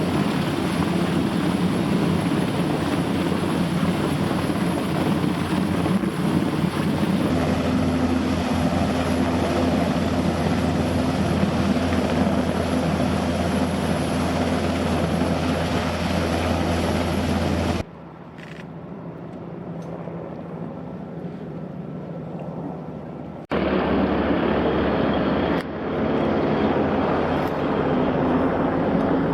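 NH90 twin-turbine helicopter hovering close by, its rotors and turbines making a loud, steady noise with a deep hum. The noise drops abruptly to a much lower level about two-thirds of the way through, then returns at full strength about six seconds later.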